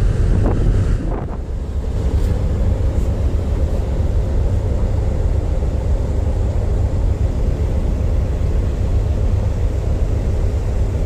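Steady low rumble of a ship's diesel engines, with wind buffeting the microphone. The gusts ease about a second and a half in, leaving the rumble with a faint steady hum.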